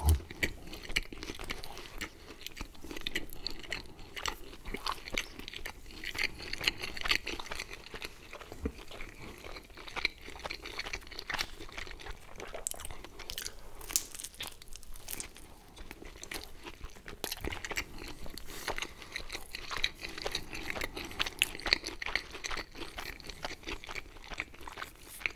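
Close-miked chewing of pizza and pizza rolls, a dense, irregular run of small crunches and mouth clicks from bites of crust.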